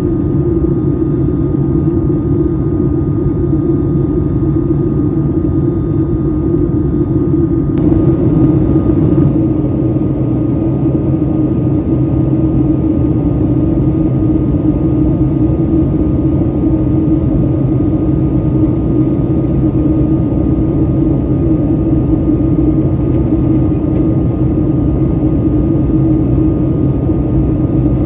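Steady, loud cabin noise of a Boeing 757-200 airliner: a continuous low drone of engines and airflow with a faint steady whine, turning a little brighter about eight seconds in.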